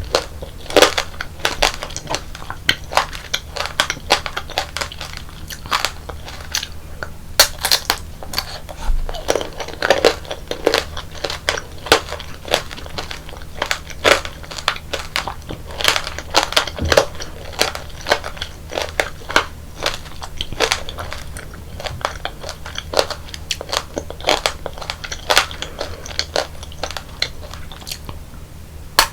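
Close-miked crunching and chewing of tanghulu, fruit coated in a hard, glassy sugar shell. The candy shell cracks in many sharp, irregular crunches, several a second, between stretches of chewing.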